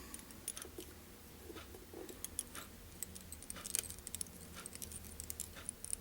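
Faint, irregular small clicks and ticks of fly-tying work at the vise, as tying thread is wound on with a bobbin to build the fly's head.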